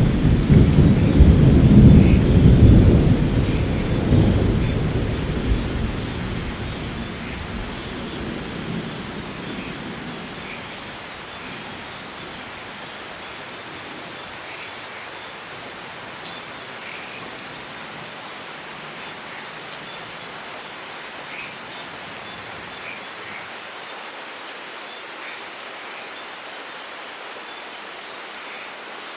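Thunderstorm: a rumble of thunder dying away over the first ten seconds or so, leaving steady rainfall with scattered drops.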